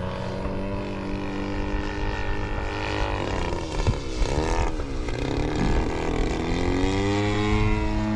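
Radio-controlled model airplane engine and propeller running steadily as the plane flies past, the sound sweeping in the middle of the pass. The engine's pitch rises near the end as the throttle is opened.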